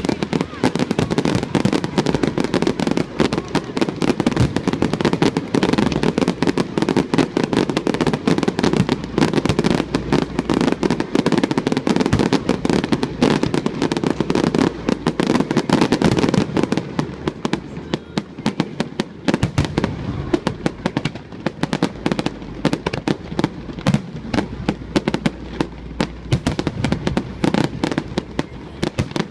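Aerial fireworks display: a dense, unbroken barrage of bangs and crackles, easing off somewhat after about seventeen seconds.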